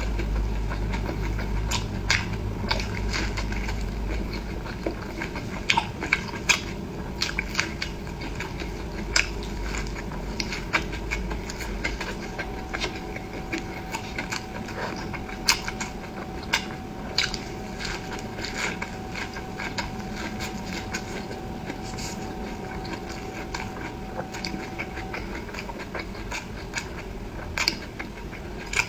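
Close-miked eating: chewing and biting with frequent sharp wet clicks and smacks at an uneven pace. A faint steady tone sounds through the middle stretch.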